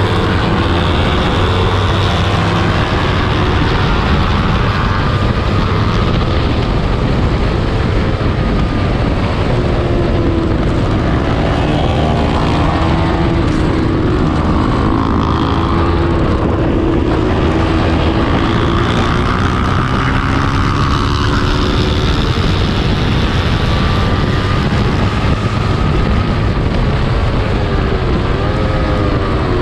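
Small-displacement race motorcycle engine running hard on a race track, its pitch rising and falling again and again as the rider accelerates and slows through the laps.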